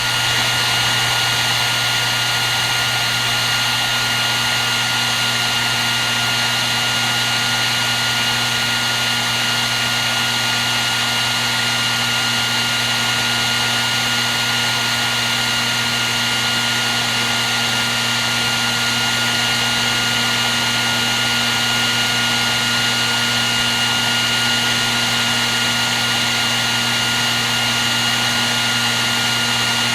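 Hair dryer running steadily: an even rush of blown air under a constant motor hum, with a faint high whine held at one pitch.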